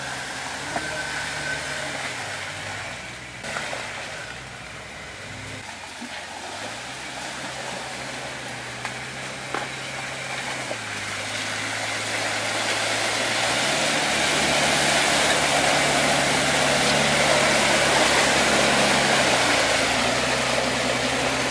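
Jeep Wrangler YJ engine running at low revs that rise and fall in steps while the Jeep wades a ford without a snorkel. Rushing, splashing water builds from about halfway through and is the loudest sound by the end.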